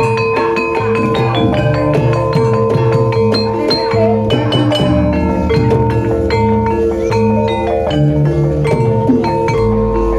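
Gamelan-style accompaniment for a kuda lumping dance: tuned mallet percussion struck in a fast running pattern over a held ringing tone and low drum and gong notes.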